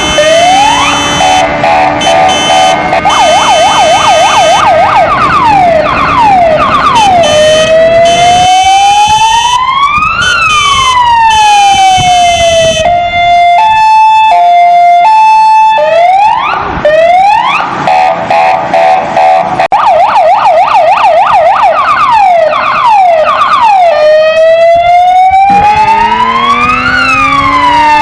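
Kingvox ERP electronic siren cycling through its tones: fast repeated yelp sweeps, a long wail that rises and falls, and a stepped two-tone hi-lo in the middle. A lower rising tone comes in near the end.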